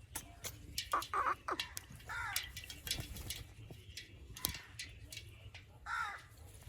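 Parrot squawking in short, arched calls about three times, among many sharp clicks, as it bathes in water.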